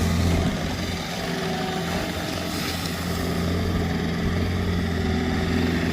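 Plow truck's engine running with a steady low hum.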